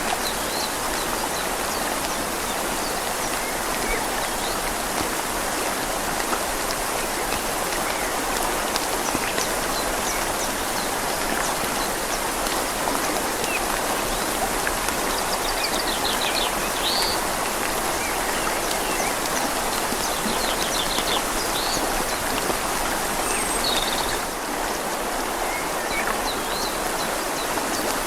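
Steady rain falling on leaves together with a gently flowing river, making an even, constant hiss of water.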